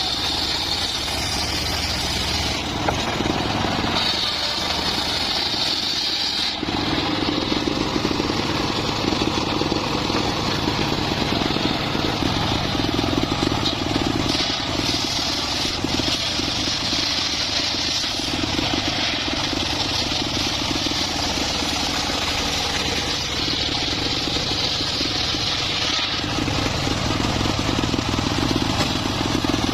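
Engine-driven homemade circular sawmill running steadily, its engine drone underlying a higher cutting noise from the blade in the log that comes and goes several times.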